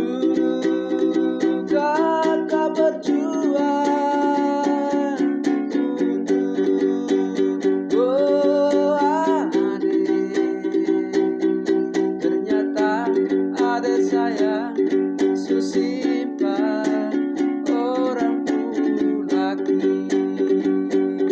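Instrumental music: steady strumming on a ukulele-like plucked string instrument, with a melody line that slides up and down over it.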